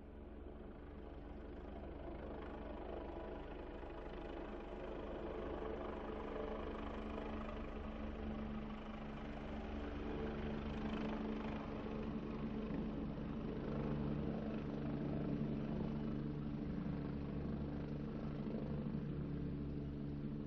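Truck engine running steadily with a low, even drone, growing louder over the first half.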